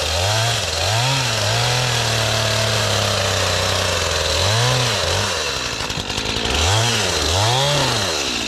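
Gas chainsaw revving up and down in quick blips, held at high speed for about two seconds, dropping back around six seconds in, then blipped twice more. It is cutting a tree.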